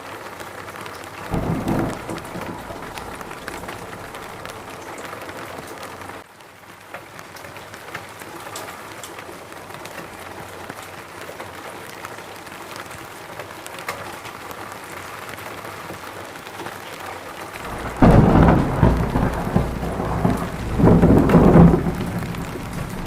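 Steady rain falling, with a short low rumble of thunder about a second and a half in and a louder, longer roll of thunder near the end that swells twice.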